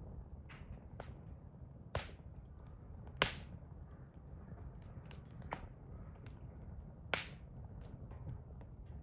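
Hardwood firewood fire crackling: irregular sharp pops and snaps, the loudest about two, three and seven seconds in, over a faint low rumble.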